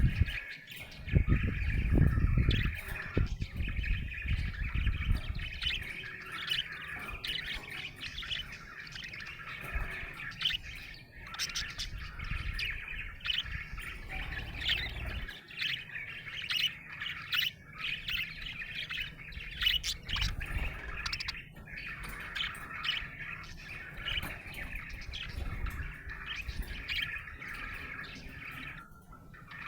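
Budgerigar chirping and warbling continuously, a dense stream of rapid short chirps and trills. A low rumble sits under it for the first few seconds.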